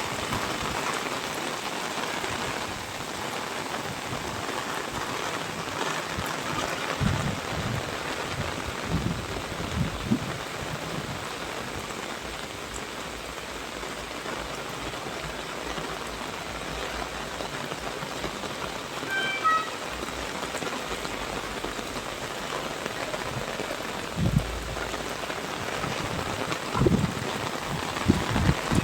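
Steady rain falling: an even hiss of rain on surfaces, with a few short low thumps now and then.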